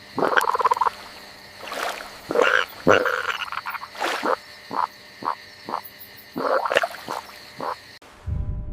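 Frogs croaking: a few longer calls, then a run of short croaks repeating about twice a second. Near the end the sound cuts to something different and low-pitched.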